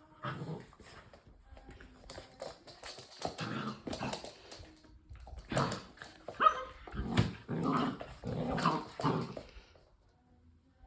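Labrador puppies vocalising in a string of short barks and whimpers, about eight bursts over nine seconds, falling quiet near the end.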